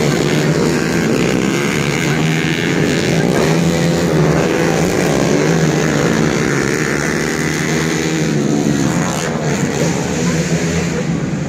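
Several stock underbone motorcycles with small single-cylinder four-stroke engines racing together, their engines revving up and down and overlapping.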